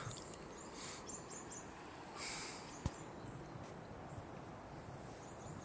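Quiet outdoor ambience: a faint steady hiss, with a brief louder rustling hiss about two seconds in and a single sharp click just after it.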